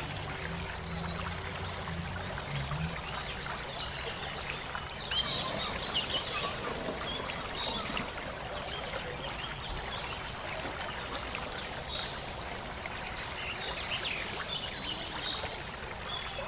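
Shallow stream water flowing and splashing over rocks with a steady rushing trickle. A low hum fades out in the first few seconds.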